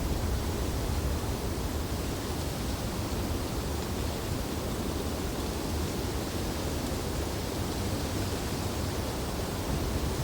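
Wind blowing through tree branches in a snowstorm: a steady rushing noise.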